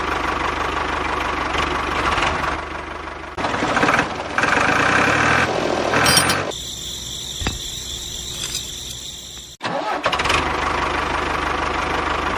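Engine-like running noise in several edited segments that change abruptly, with a higher-pitched stretch near the middle.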